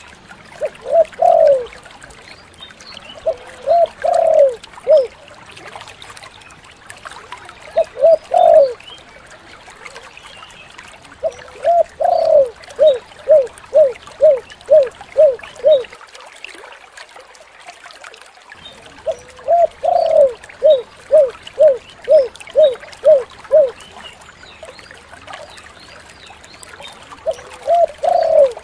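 Spotted dove (tekukur) cooing: repeated phrases of short, falling coos, some strung into quick runs of eight or nine notes, with a pause of a few seconds between phrases.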